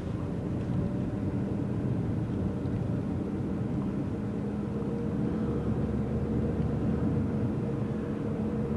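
Car engine and road noise heard from inside a moving car: a steady low drone whose engine tone comes through more clearly about halfway through.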